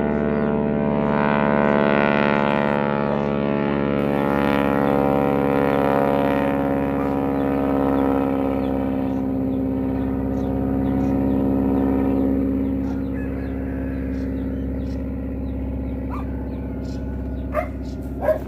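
Grumman Ag Cat G-164A crop-duster's 450 hp radial engine running steadily in flight, strongest over the first several seconds and slowly fading toward the end. Two short sharp clicks come near the end.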